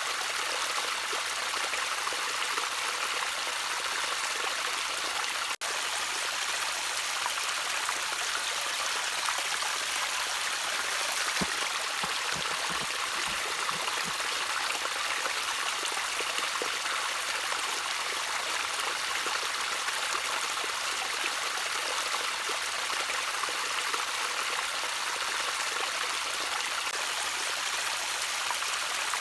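A shallow stream trickling over stones: a steady, bright splashing with no let-up. About five and a half seconds in, the sound drops out for an instant.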